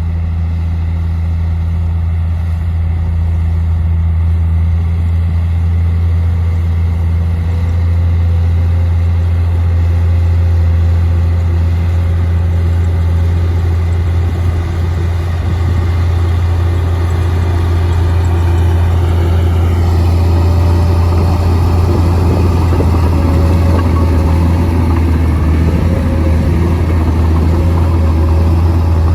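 Komatsu D58P bulldozer's diesel engine running steadily at a low, even pitch; about halfway through the sound grows busier and a little louder, with added clatter and a faint whine above the engine note.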